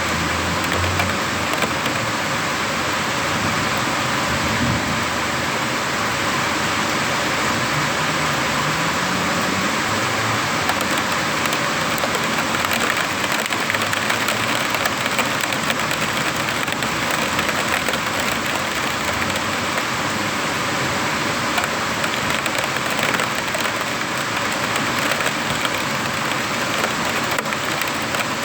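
Heavy rain falling steadily in a thunderstorm, a loud, even hiss with no breaks.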